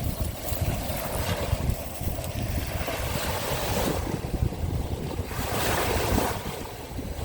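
Sea of Azov waves washing in one after another, each a rising and falling rush, the last and strongest near the end. Wind buffets the microphone with a steady low rumble.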